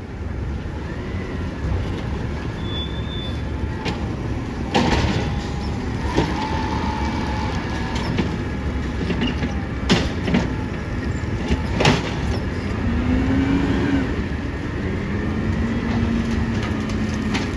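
Heavy trucks running with a steady low rumble, with several sharp clanks and a few short squeals.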